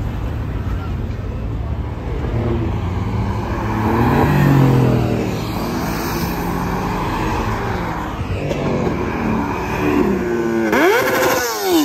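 Sports cars driving past on a street, engines revving as they go by. Near the end one car revs hard, its pitch sweeping sharply up and back down.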